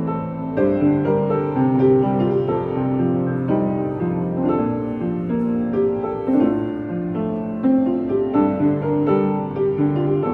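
Solo piano playing a melody over held bass notes and chords.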